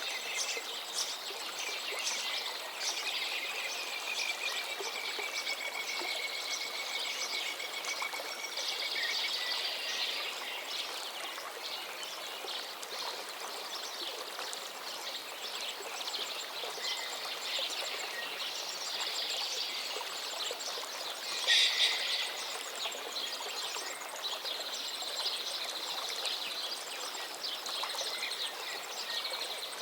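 A river running steadily, with songbirds singing over it. One bird holds a long, thin whistled note for about five seconds a few seconds in, and a louder burst of calls comes about two-thirds of the way through.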